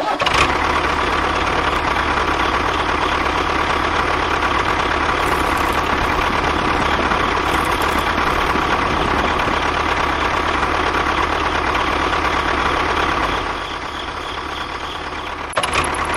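A machine running steadily with a constant whine over a low hum. It drops in level a few seconds before the end, and a sharp click follows shortly after.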